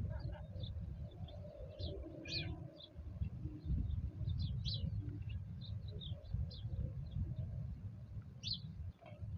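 Small birds chirping, with many short, high chirps in quick, irregular succession, over a steady low rumble.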